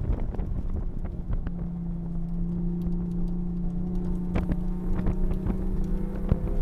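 Toyota A90 Supra engine heard from inside the cabin, pulling at part throttle around 3,600–4,000 rpm with a steady tone that starts to rise near the end as the car accelerates. Wind and road noise run underneath, with a few sharp clicks.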